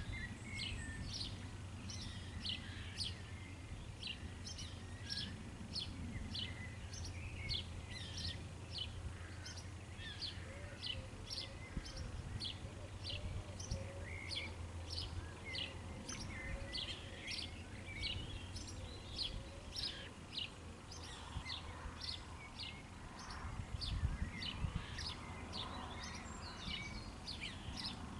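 Songbirds calling around a pond: a long run of short, high chirps, about three a second, with fainter calls behind them. A steady low rumble underneath swells briefly near the end.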